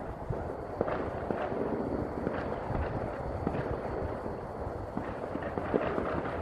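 Distant fireworks display: a run of bangs and pops at irregular intervals, roughly two a second, over a steady noisy background.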